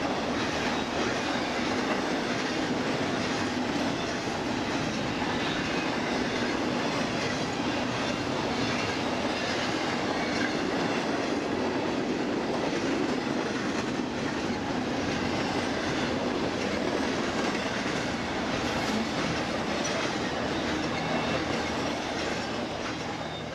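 BNSF intermodal freight train's double-stack container and trailer cars rolling past: a steady, loud rumble of steel wheels on rail with clickety-clack over the joints. It begins to fall away right at the end as the last cars go by.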